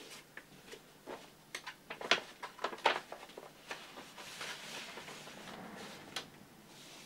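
A run of light clicks and knocks, then a soft rustle lasting about two seconds, with one more sharp click near its end.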